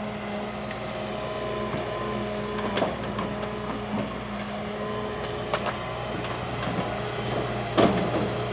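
Large excavator's diesel engine running steadily, with a few sharp knocks over it, the loudest near the end.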